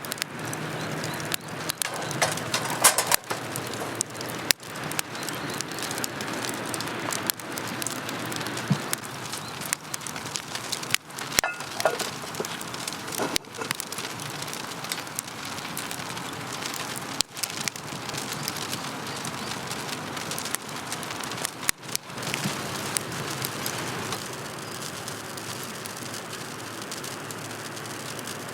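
Steady rain pattering, with frequent sharp pops and ticks scattered through it.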